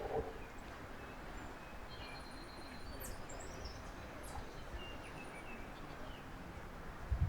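Small birds giving short, thin, high chirps and whistles for a few seconds, over a steady low outdoor background hiss.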